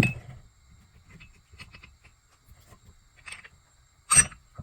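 Steel ball joint press parts (installer, receiver cup and spacers) knocking together as they are fitted onto a steering knuckle. There are faint small taps, a sharp ringing metal clank at the very start, and another about four seconds in.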